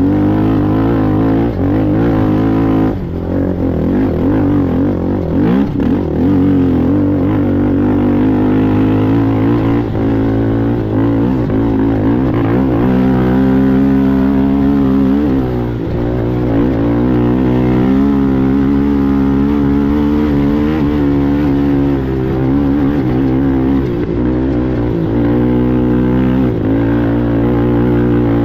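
Race ATV engine running hard, its revs rising and falling continuously, with short dips in pitch about three seconds in and again around halfway.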